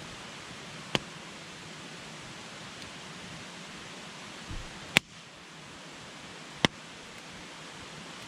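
Wood campfire burning with a steady hiss and three sharp crackling pops, the loudest about five seconds in.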